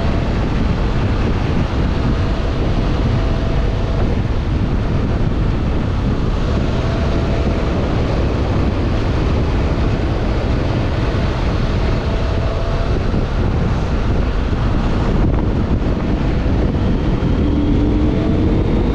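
Wind rushing over the microphone on a moving 2025 CFMoto Ibex 800 motorcycle, its parallel-twin engine running underneath at a steady level.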